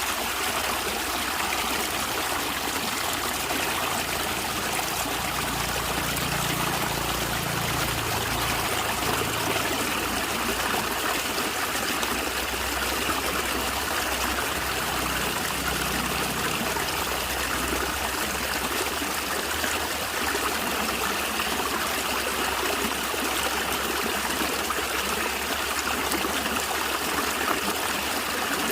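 A natural stream of water flowing and gurgling steadily over stones, a continuous, even trickling wash.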